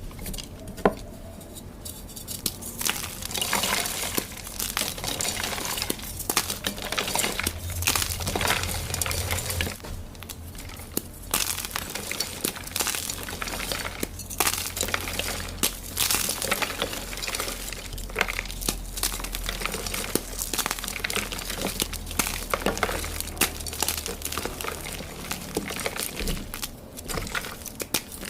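Blocks of dyed gym chalk being crushed and crumbled: a dense, crisp crunching and crackling made of many small cracks, with one sharp crack about a second in.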